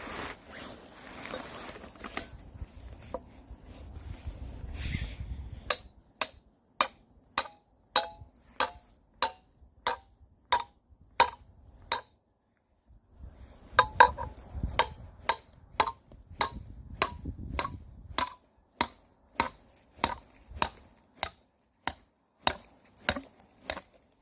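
Firewood being chopped: sharp, evenly spaced strikes, about three every two seconds, in two runs broken by a short pause near the middle, after a few seconds of rustling and handling noise.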